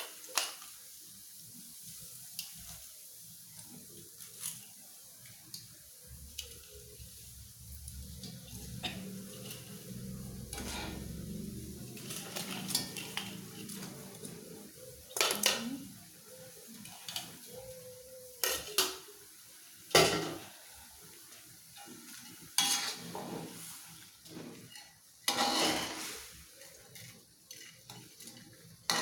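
A cooking utensil clinking, knocking and scraping against a pot of boiling broth as fried fish pieces go in and are stirred, with a faint steady simmer beneath. Several sharp knocks stand out, spread over the second half.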